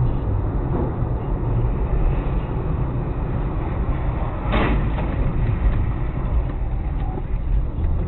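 A car's engine and road noise as picked up by a dash camera: a steady low rumble, with one brief sharp noise about halfway through.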